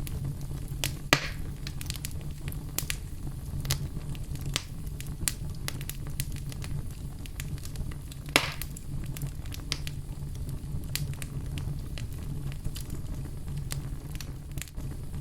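Fire burning in a fireplace, crackling with many small, irregular snaps over a steady low rumble. Two louder pops come about a second in and again about eight seconds in.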